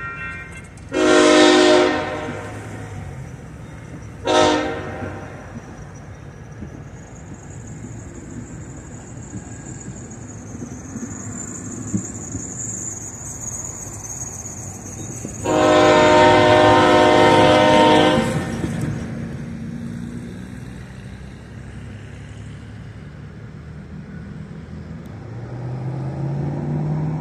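Union Pacific diesel locomotives' air horn sounding three times: a blast of about a second, a short blast a few seconds later, then a longer blast of about three seconds. The diesel engines rumble steadily underneath.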